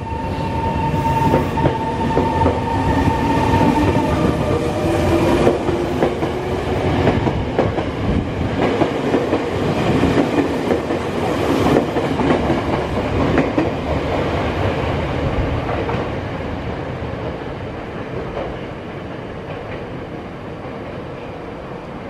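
Tokyo Metro 03 series electric train pulling out and accelerating past, its motor whine rising in pitch and its wheels clicking over rail joints. The sound fades near the end as the last car draws away.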